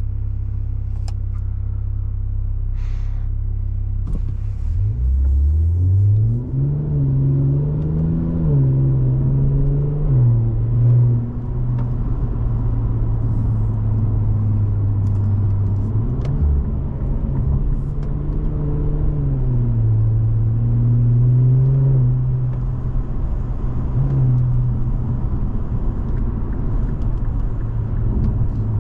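Infiniti Q60 Red Sport's twin-turbo V6 through the Infiniti Performance exhaust while driving. It starts as a steady low drone, then about four seconds in rises in pitch under acceleration and falls back. It settles into a steady cruising drone, rising and easing a few more times.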